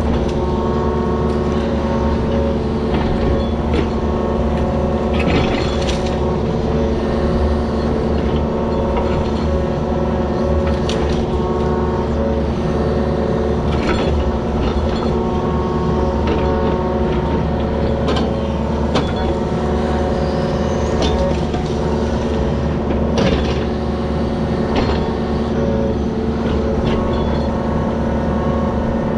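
Engine of a digging machine running steadily under work, with occasional sharp knocks and scrapes from the bucket in rocky ground.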